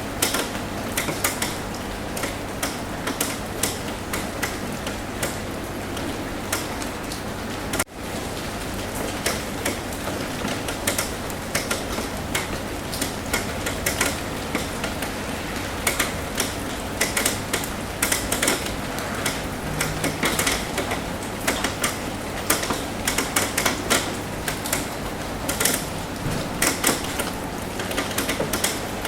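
Rain tapping on a roof: many irregular, sharp drop taps over a steady hiss of rain. The sound drops out for an instant about eight seconds in.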